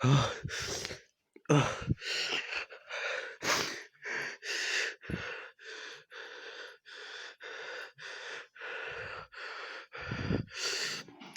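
A man gasping and panting hard in short rapid breaths, about two a second, from the burning heat of a bird's eye chili he has just eaten.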